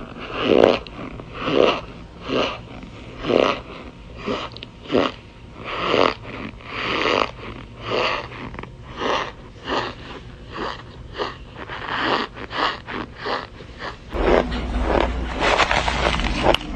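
Raw cornstarch chunks being chewed close to the microphone: a rhythmic crunch about once a second that speeds up to about two a second. About 14 s in, a louder crunching joins over a steady low rumble.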